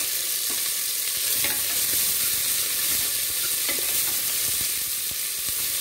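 Sliced onions, green chillies and ginger-garlic paste sizzling steadily in hot ghee and oil in an aluminium pressure cooker, stirred with a wooden spatula.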